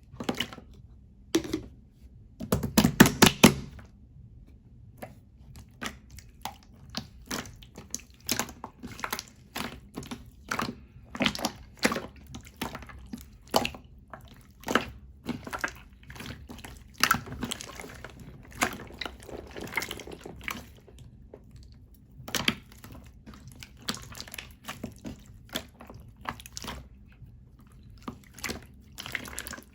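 Slime being squished and pressed by hand, making wet clicks and pops at irregular intervals, with a quick run of loud pops about three seconds in.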